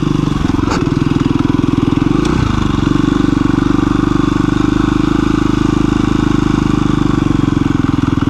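KTM 350 EXC-F dirt bike's single-cylinder four-stroke engine running at a low, steady pace on a trail, with two brief dips in engine speed about one and two seconds in.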